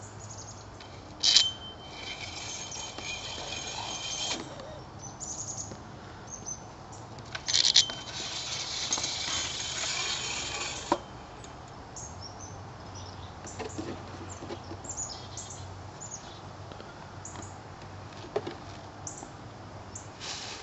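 Metal clicks and knocks from a bird feeder's steel sleeves and pins being worked on its conduit post, with two stretches of a few seconds of rasping, rattling noise as parts are slid and handled. Birds chirp faintly in between.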